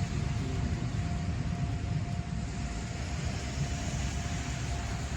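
Izuhakone Railway 5000-series electric train running away from the platform: a steady low rumble with a thin steady tone, slowly getting quieter.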